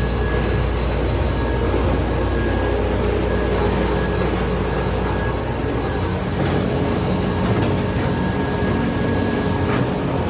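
Airport people-mover train running, heard from inside the car: a steady rumble and hum with a thin high whine held throughout, the low rumble changing about halfway through.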